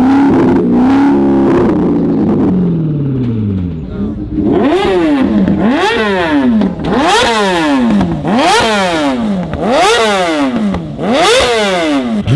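Car engine held at high revs, then dropping back, then revved hard over and over: six or so sharp rev blips, each climbing and falling back, about one a second.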